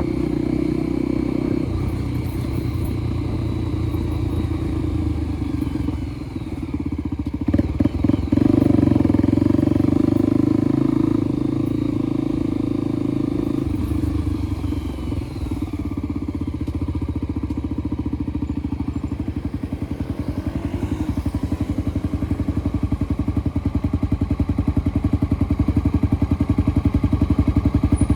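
Motorcycle engine running during a ride. It is loudest for a few seconds after some brief knocks, then settles into an even, low-revving pulse, like idling, in the last third.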